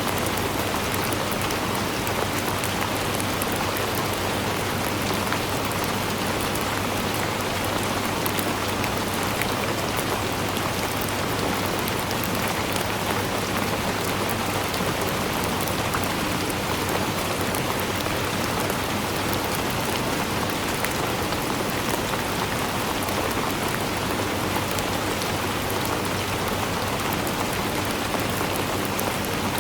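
Steady rainfall, an even hiss of many drops pattering on a surface, with no change in intensity.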